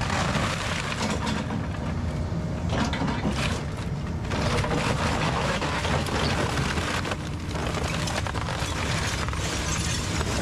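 Kobelco SK210 excavator's diesel engine running under load while it crushes and breaks up a brick house, with continual crunching, cracking and crashing of debris.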